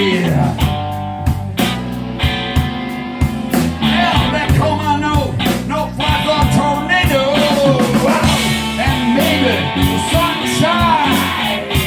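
Live blues band playing a slow blues, with a lead electric guitar bending notes over bass and drums.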